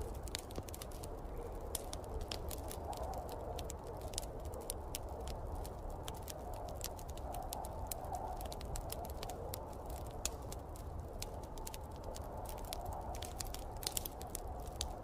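Wood fire crackling, with frequent irregular sharp pops, over a steady low rumble of snowstorm wind that rises and falls in pitch.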